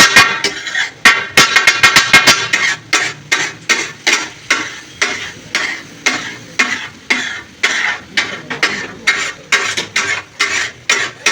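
A metal utensil scraping and stirring in a metal pot in regular strokes, about two a second, after a quick run of sharp clicks at the start.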